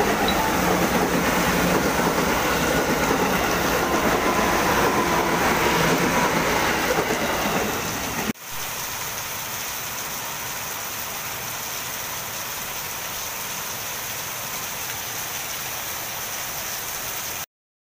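KRL commuter electric train passing close by in heavy rain, its running noise loud and even with a faint steady tone. About eight seconds in it cuts to heavy rain alone, a quieter steady hiss that stops abruptly near the end.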